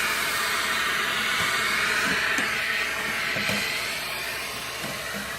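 Household vacuum cleaner running steadily, sucking leaves and debris out of the blower area, with a few light knocks.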